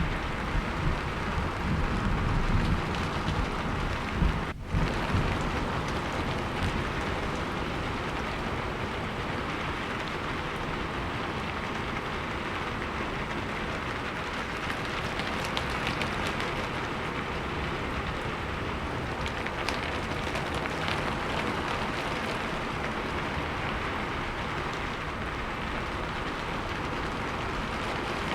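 Steady rain falling and pattering on surfaces, with a deeper low rumble under it in the first few seconds. The sound dips out for an instant about four and a half seconds in.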